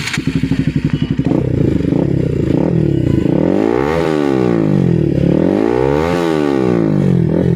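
Bajaj Pulsar NS motorcycle's single-cylinder engine heard through its exhaust silencer, idling with distinct firing pulses. It is revved twice, each time rising in pitch and falling back, then returns to idle near the end.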